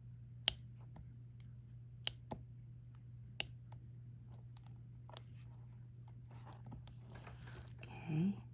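Diamond-painting drill pen picking up resin drills and pressing them onto the canvas: scattered light clicks and taps, a few seconds apart, over a steady low hum.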